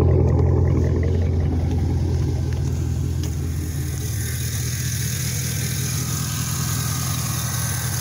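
Camaro's 6.2-litre V8 running steadily at idle through a Flowmaster exhaust, a deep even rumble that fades slightly as the microphone moves from the tailpipe to the engine bay. No strange noises can be heard, even though a piece of plastic has been sucked into the engine's intake.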